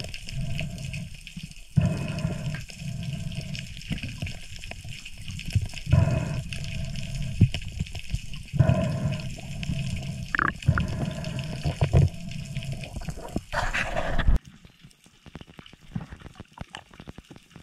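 Breathing through a snorkel with water gurgling, in heavy breaths every two seconds or so. About fourteen seconds in, the sound drops away to a quiet crackle of small underwater clicks as the diver goes under.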